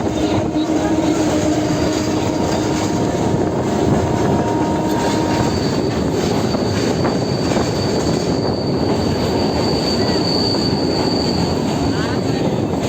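Local passenger train running, heard from aboard: a steady, loud rumble of wheels on rails. From about five seconds in, a thin high squeal from the wheels runs for several seconds.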